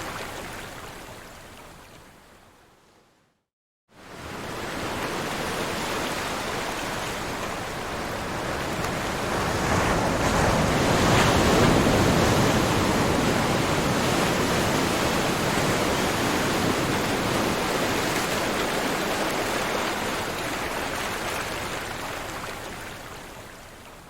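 Ocean surf: a steady rushing wash of waves. It fades out to a moment of silence about three and a half seconds in, then fades back in, swells to its loudest around the middle and fades away near the end.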